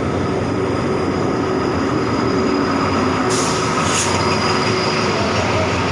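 State Railway of Thailand diesel train running on the track, a steady loud rumble of wheels and engine, with a brief hiss about three and a half seconds in.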